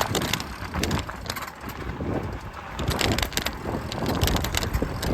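Riding an e-bike: wind rumbling on the microphone, with irregular clicks and rattles from the bike.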